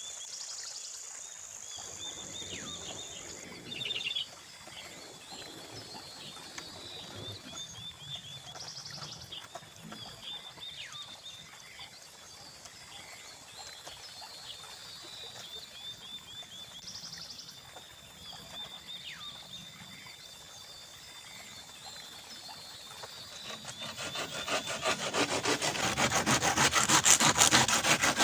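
Insects chirping in short repeated trills, with light scattered handling noises. Near the end a hand saw starts cutting through bamboo in fast, even strokes that grow louder and become the loudest sound.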